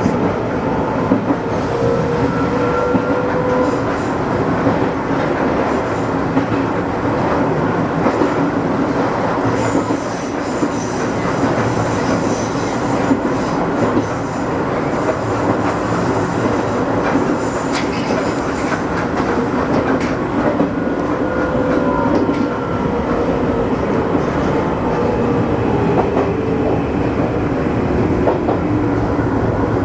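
Electric commuter train of the Izuhakone Railway Sunzu Line running, heard from inside the car: steady wheel-and-rail rumble with clicks over the rail joints, and a motor whine that glides in pitch in the first few seconds and again after about 20 seconds.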